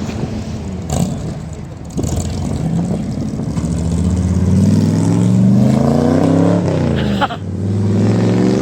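A car engine accelerating, its pitch climbing for several seconds, dropping sharply about seven seconds in, then climbing again.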